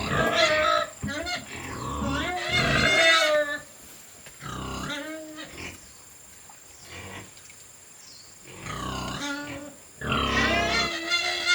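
Animal calls: a run of loud, harsh, pitched calls for the first three seconds or so, then shorter separate calls with pauses between them.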